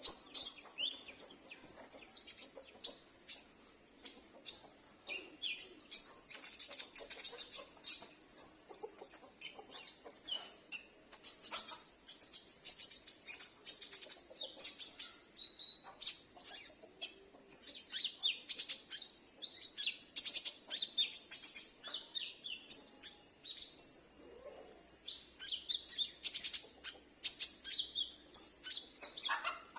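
Olive-backed sunbird (konin) calling: a fast, almost unbroken string of short, high, thin chirps and twitters, with brief pauses between phrases.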